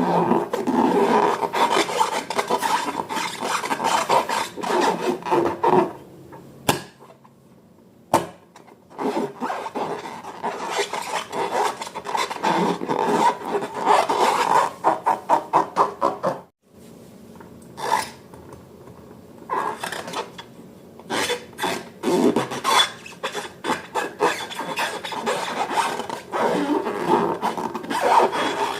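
Sticky slime being worked and squished: a continuous run of wet, rapid clicks and rubbing. It goes quieter for a couple of seconds about six seconds in and cuts out briefly around sixteen seconds.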